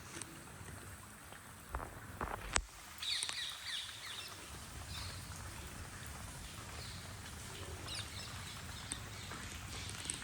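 Steady rain with birds chirping in short bursts from about three seconds in. A few sharp clicks come about two seconds in.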